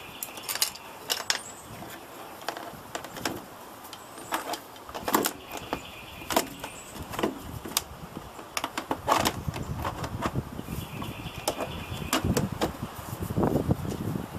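Irregular clicks, knocks and light rattles of computer hardware being handled inside a desktop case. They come thicker, with rustling and thuds, in the second half.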